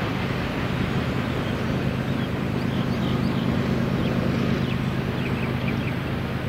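Train going by: the steady low rumble of a diesel locomotive engine running, with the noise of the train rolling along the track.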